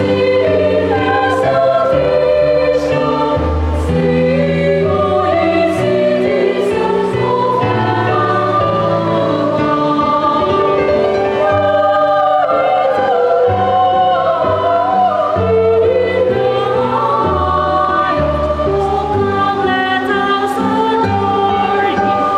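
Children's choir singing a Christmas carol with instrumental accompaniment.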